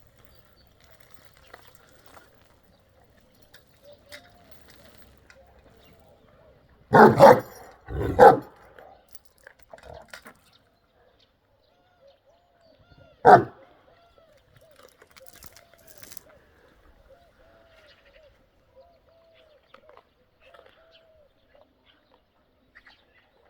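Large Anatolian shepherd dog barking loudly: two deep barks about a second apart around seven seconds in, then a single bark about five seconds later.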